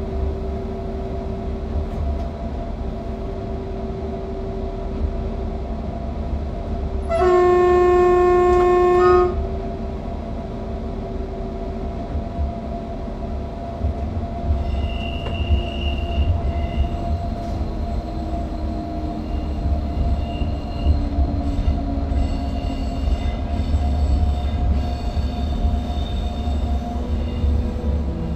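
Electric passenger train running, heard from the driver's cab: a steady rumble with motor hum, broken about a quarter of the way in by one horn blast about two seconds long. In the second half, intermittent high-pitched squeals come in and a motor whine slowly falls in pitch.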